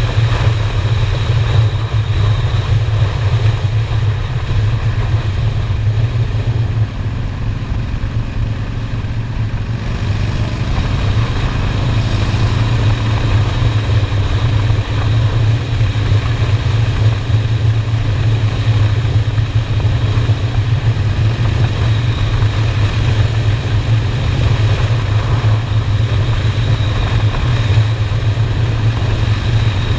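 Honda Shadow V-twin motorcycle engine running steadily while riding: a loud, even low rumble.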